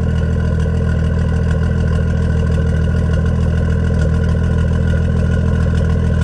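BMW M340i's B58 3.0-litre turbocharged inline-six idling steadily after a cold start, breathing through an aftermarket downpipe with a tune.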